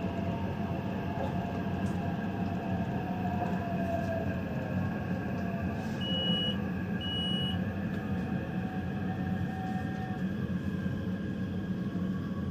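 Taipei Metro Zhonghe–Xinlu line train running, with a steady rumble and a whine whose pitch drifts slowly. Two short high beeps sound about six seconds in.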